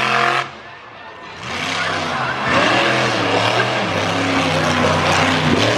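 Monster truck engine revving hard. A loud blip at the start falls away quickly; about a second and a half in, the engine builds up again and then holds at high revs, its pitch wavering.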